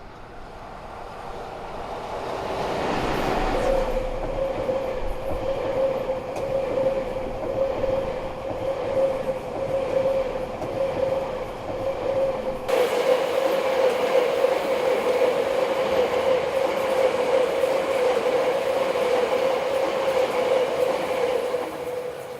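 EF65 electric locomotive hauling a string of unpowered new passenger cars past on the rails: the train noise grows louder over the first few seconds, then holds as a steady rumble of wheels on track with a steady tone through it, and eases off near the end.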